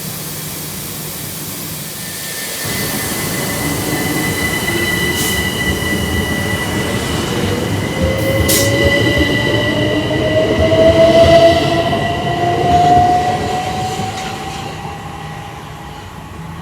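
Class 377 Electrostar electric multiple unit pulling away from the platform. Its traction motors whine, rising steadily in pitch as it accelerates, over a steady higher hum and rail noise. It is loudest about eleven to thirteen seconds in, then fades as the train leaves.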